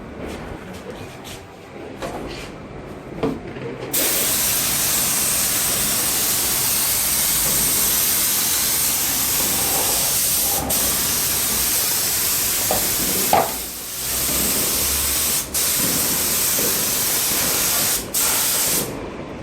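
A loud, steady hiss of rushing air or spray that starts suddenly about four seconds in, with a brief dip a little past halfway and two very short breaks near the end.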